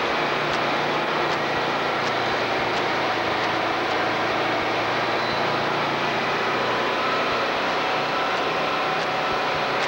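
Heavy truck on the move with a steady engine and road noise, and a faint tick repeating about every three quarters of a second.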